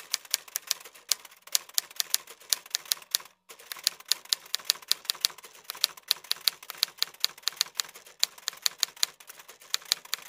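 Typewriter keys clacking in a quick, uneven stream, with a brief pause about a third of the way through: a typewriter sound effect that goes with on-screen text being typed out letter by letter.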